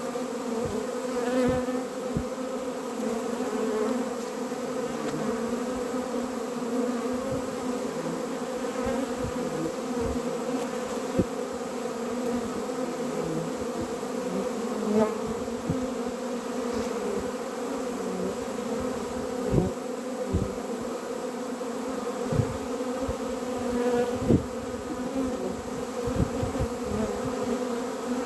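Honeybees buzzing in a steady, pitched drone from a hive, with scattered short low knocks.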